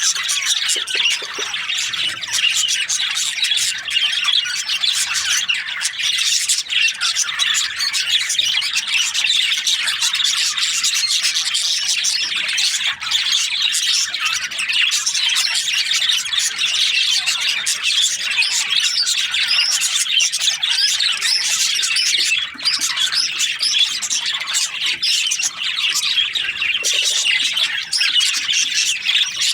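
A flock of budgerigars (budgies) chirping and chattering continuously, many high calls overlapping without a break.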